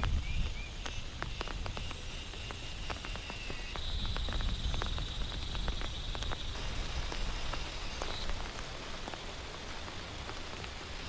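Heavy rain falling steadily, with many separate drops ticking sharply on a surface. A faint high steady tone runs underneath until about eight seconds in.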